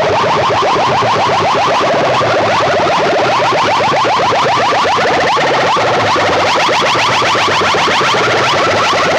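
Loud electronic sound-effect track with a rapid, stuttering pulse, blasted through big DJ PA speaker rigs at competition volume and heavily distorted.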